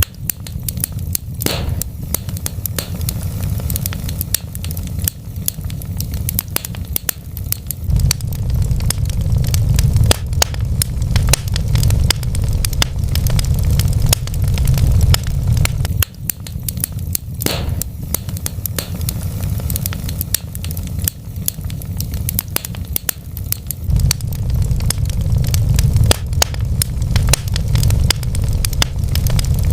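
Wood fire burning in a fireplace: a steady low rumble of flames under many sharp crackles and pops from the burning logs, with a louder pop about a second and a half in and another about seventeen seconds in.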